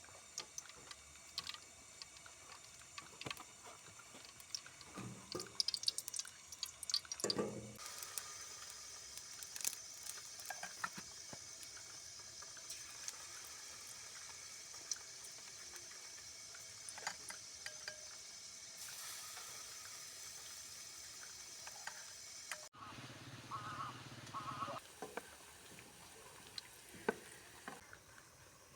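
Water dripping and trickling, with scattered small clicks and knocks. About 23 s in, the sound changes abruptly.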